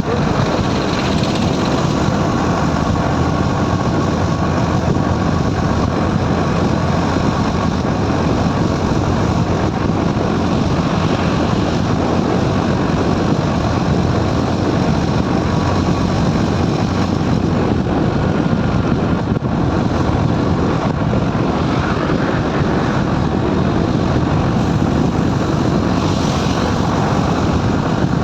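Motorcycle riding at highway speed: a steady, loud rush of wind and road noise with the engine running underneath, unbroken throughout.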